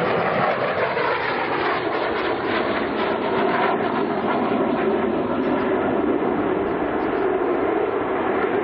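Panavia Tornado IDS's twin RB199 turbofans running loud and steady as the jet flies its display, a continuous dense jet noise with a slowly shifting pitch.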